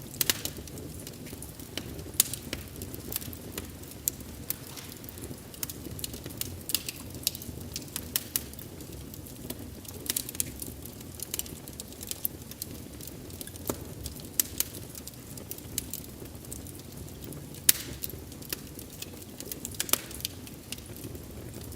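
Wood fire burning with a steady low hiss and rumble, crackling and popping in sharp, irregular snaps; one of the loudest pops comes near the end.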